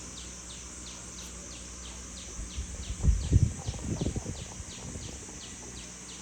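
Steady high insect buzz with a short falling chirp repeating about three times a second. A cluster of low thumps and rumbles comes in the middle.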